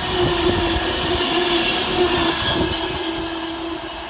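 Class 390 Pendolino electric train passing through at speed, with a steady electric hum, wheels clicking over rail joints, then fading as it moves away near the end.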